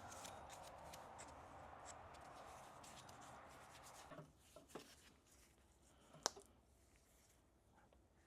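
Near silence with faint handling noise of tools and parts during a U-joint job: a light hiss for the first few seconds, then a few soft clicks and one sharper click about six seconds in.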